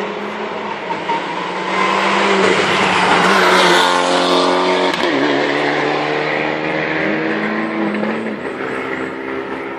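Rally car approaching and passing at speed, its engine loudest about three to four seconds in. The pitch drops as it goes by, and the engine revs up once more as it pulls away and fades.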